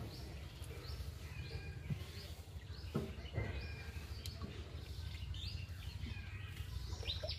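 Small birds chirping over and over, short rising-and-falling calls, over a steady low rumble, with a few sharp knocks about two to three and a half seconds in.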